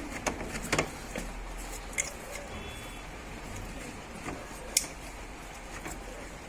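A few sharp, light clicks and taps of hand tools and small metal parts, over a faint steady hum, as the cam chain tensioner is unbolted from a scooter engine.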